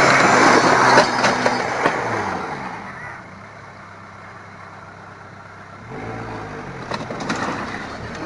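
Diesel engine revving hard, then falling back toward idle about two seconds in. It revs up again about six seconds in, with a few metallic knocks and clanks.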